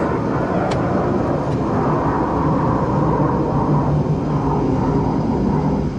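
A vehicle engine running steadily: a loud, even rumble with a steady low hum.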